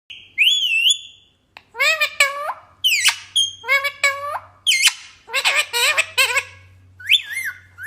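Pet parrot squawking and chattering in a string of short, high-pitched calls and speech-like sounds, with a brief pause about a second in.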